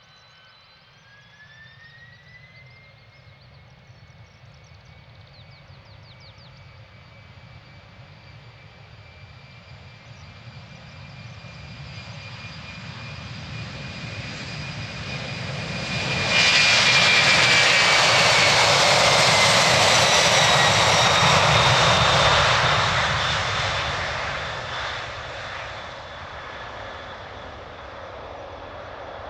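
Boeing 767 jet engines spooling up with a rising whine, then building to a loud roar partway through as the airliner runs past on its departure. The whine then slides down in pitch and the roar fades toward the end.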